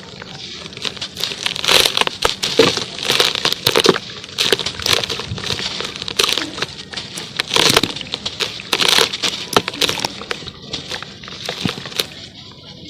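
Charcoal crumbling in water: a dense run of crackles and small sharp snaps over a steady high hiss, with louder clusters about two, four, eight and nine seconds in.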